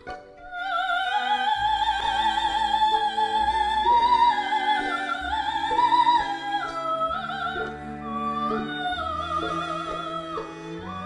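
A female solo soprano voice singing a long, slow melody with wide vibrato over string accompaniment with sustained bass notes. The voice enters about half a second in.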